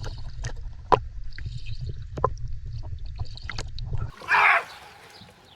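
Hands paddling in lake water from the side of a canoe: irregular small splashes and drips over a low rumble, with one bigger splash about four seconds in, after which it goes quieter.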